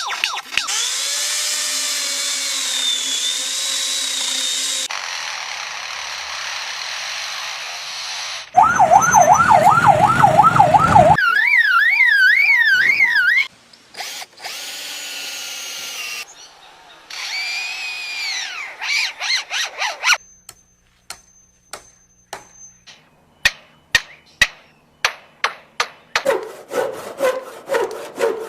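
A string of short clips of a mimicking bird copying man-made sounds: a fast-warbling alarm-like tone, a rapidly rising and falling siren-like call and whistled notes, then a run of sharp clicks about two-thirds of the way through.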